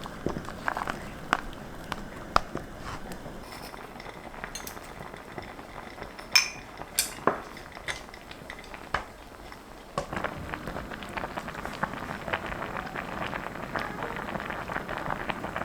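Tableware clinking and tapping during a meal: scattered sharp clicks of utensils on dishes, with a couple of ringing clinks midway. It turns into a denser run of small crackling sounds from about ten seconds in.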